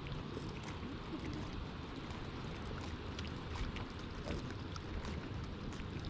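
Wind rumbling on the microphone, with scattered faint light ticks throughout.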